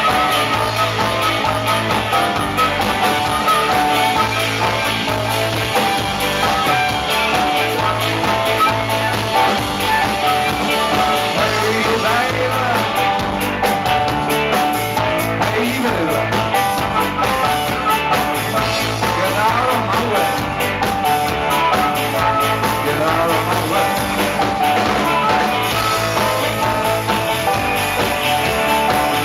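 Rock band playing with guitar, over a steady bass line; a lead line bends up and down in pitch through the middle.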